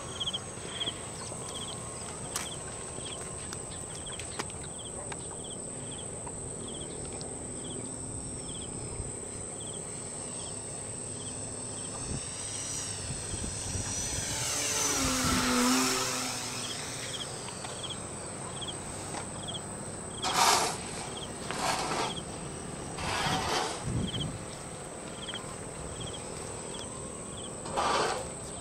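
Radio-controlled model Cessna 182 flying past, its propeller drone growing louder and rising, then falling in pitch as it goes by about halfway through. Crickets chirp about twice a second behind it, with a steady high insect buzz. Several short rushing noises come in the second half.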